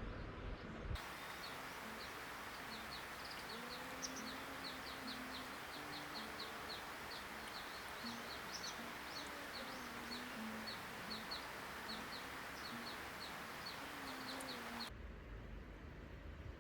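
Wild birds chirping in the forest: a quick run of short, high notes, several a second, with lower wavering calls underneath, over a steady hiss. The sound starts abruptly about a second in and cuts off near the end.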